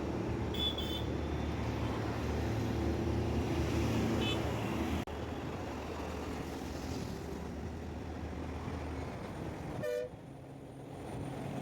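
Busy road traffic: a steady rumble of engines and tyres with several short vehicle horn toots, a high one near the start, another a few seconds in, and a lower, stronger honk near the end.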